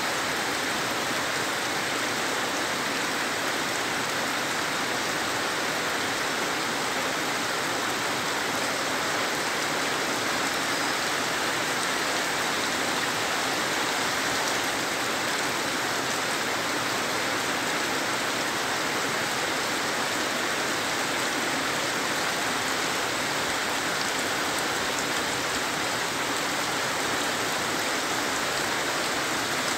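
Heavy rain falling steadily on leaves, crops and ground, an even unbroken rush of water with no let-up.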